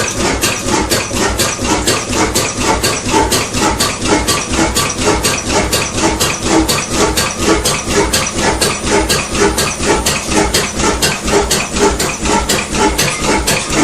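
Old diesel engine running steadily, its slow exhaust beat coming about four times a second.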